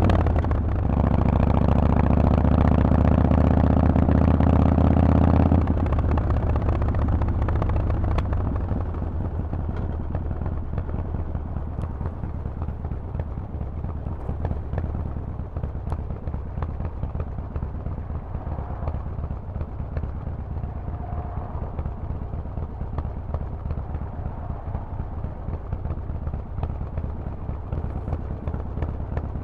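Harley-Davidson Forty-Eight's air-cooled 1200 cc V-twin through a Vance & Hines exhaust, pulling loudly under throttle for about five seconds after a brief dip near the start. Then the throttle closes suddenly and the engine drops to a quieter, rougher low-revving run for the rest.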